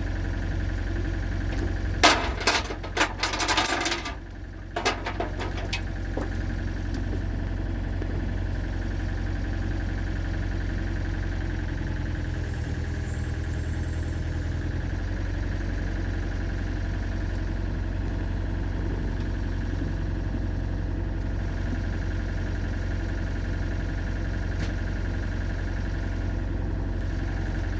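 Excavator engine idling steadily, with a cluster of sharp metal clanks and rattles about two to five seconds in and a few more a couple of seconds later.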